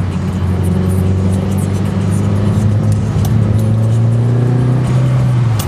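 Mitsubishi Lancer Evolution IX's turbocharged four-cylinder engine heard from inside the cabin, pulling with its pitch slowly rising, then dropping suddenly near the end. Scattered light ticks sound over it.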